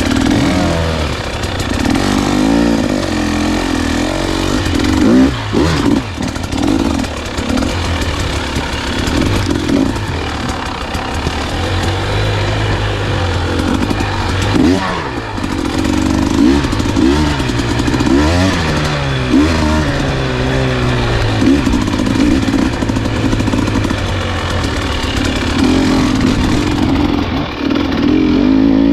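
Enduro dirt bike engine being ridden, its pitch rising and falling again and again with the throttle and gear changes.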